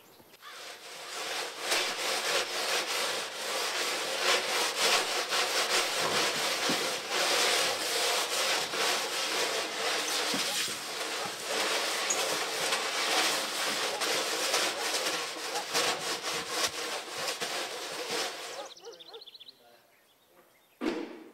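Continuous rough rasping scrape, running steadily and cutting off abruptly near the end.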